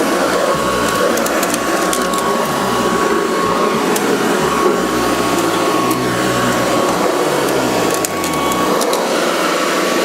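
Hoover Decade 80 upright vacuum cleaner running steadily, its low motor note sliding up and down as it works, with scattered clicks. The owner takes its slowing for a worn drive belt.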